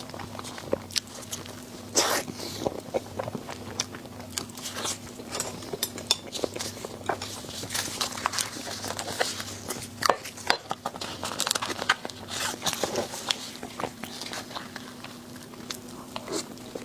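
A person biting and chewing food close to the microphone: irregular crisp crunches and wet clicks, over a faint steady low hum.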